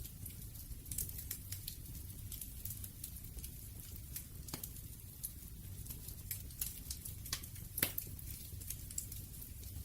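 Wood fire crackling: irregular sharp pops and snaps of burning wood, a louder pop near the end, over a low steady rumble of the flames.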